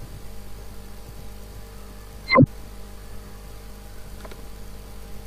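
Steady electrical hum, broken about two and a half seconds in by one brief, loud tone that falls steeply in pitch.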